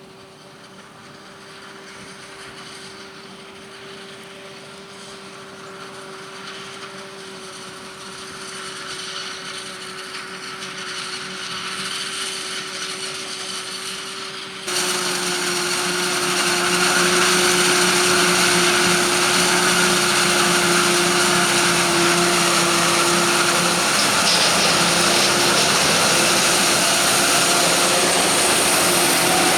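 Maize harvesting machinery running with a steady whine, growing louder as it draws closer. About halfway through, the sound jumps abruptly to a louder, closer steady run.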